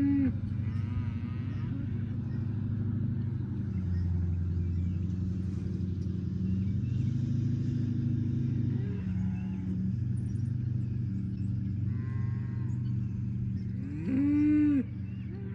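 Cattle mooing: a moo right at the start and a louder rising-and-falling moo near the end, over a steady low drone.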